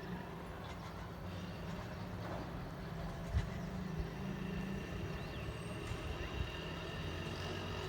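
A steady low rumble, like distant road traffic, with faint high bird chirps over it.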